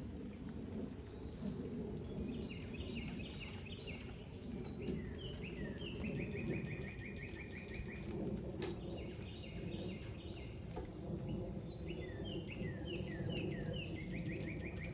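Backyard songbirds singing: phrases of short, quickly repeated sliding notes and fast trills, over a steady low background rumble. One sharp click a little past the middle.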